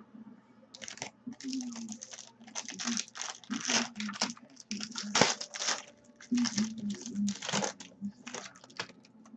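Plastic trading-card packaging being torn open and crinkled, in irregular crackling bursts throughout.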